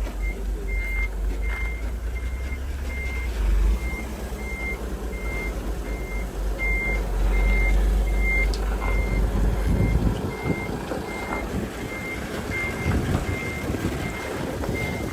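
Reversing alarm on heavy earthmoving machinery beeping steadily, about three beeps every two seconds, over the low rumble of a diesel engine. The engine rumble eases off about ten seconds in while the beeping carries on.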